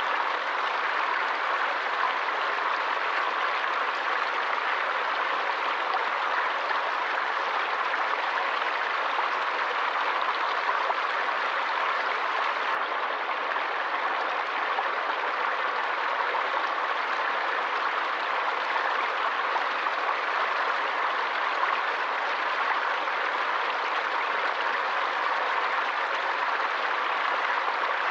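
Stream water running, a steady, even rush with no distinct splashes or breaks.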